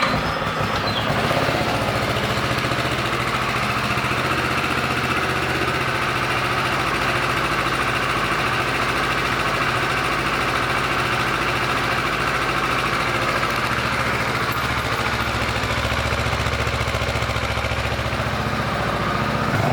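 Kawasaki Versys 650's parallel-twin engine idling steadily, just after start-up.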